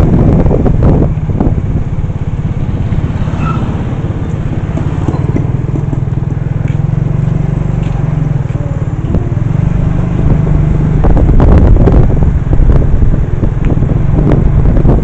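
Motor vehicle running, a steady low rumble that grows louder in the last few seconds.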